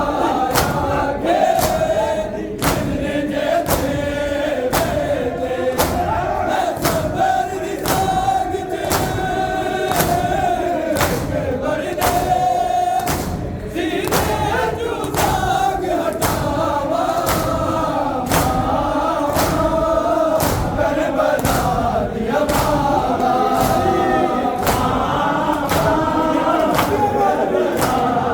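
A group of men chanting a Muharram nauha together while beating their chests in time (matam). Sharp, even hand slaps fall about every two-thirds of a second under the voices.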